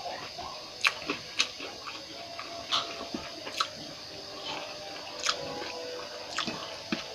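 Close-up eating sounds: a person biting and chewing boiled bamboo shoots, with about seven short crisp clicks and wet mouth sounds at irregular intervals.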